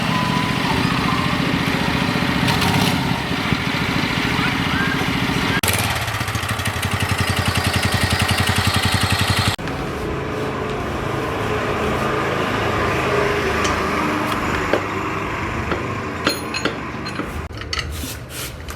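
A homemade go-kart's engine running, louder and with a faster even beat for a few seconds in the middle, then dropping back to a lower, steadier run. Near the end it fades under a series of sharp clicks and knocks.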